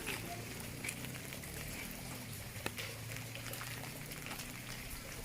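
Steady rain falling, a fine hiss with scattered drips ticking, over a low hum that fades out near the end.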